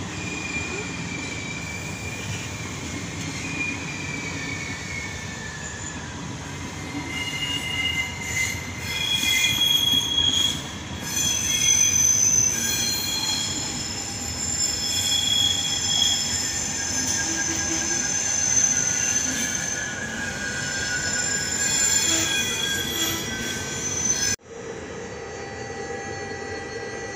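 Electric passenger train (Trenord coaches with an E.464 locomotive) rolling slowly and braking to a stop: a rumble of wheels on rail overlaid by several high, wavering squeals from the wheels and brakes, loudest in the middle. Near the end the sound drops abruptly to a quieter, steady hum.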